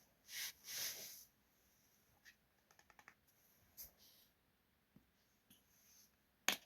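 Faint handling sounds of packaged food and drinks being put away: rustling in the first second, a quick run of small clicks about three seconds in, and a single sharp knock near the end.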